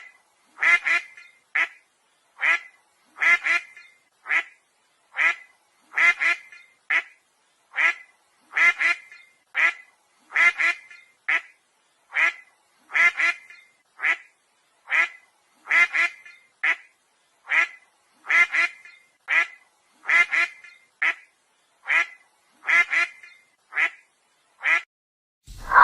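A duck quacking over and over: short quacks about once a second, now and then two in quick succession.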